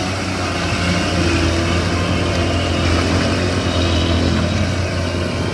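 Heavy vehicle engine running steadily with a deep, even drone.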